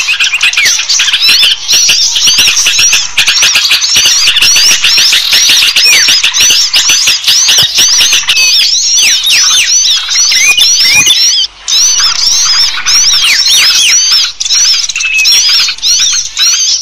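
Dense chorus of many small birds chirping and calling at once, high quick notes overlapping without pause: a bird-lure recording made to draw small birds in. There is one brief lull about two-thirds of the way through.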